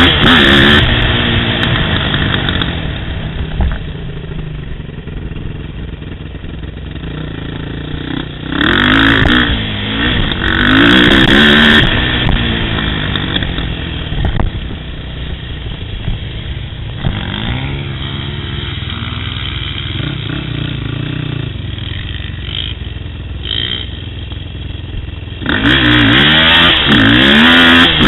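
ATV engine revving up and down in repeated surges of throttle, with quieter, lower-revving stretches between them and a loud burst of revving near the end.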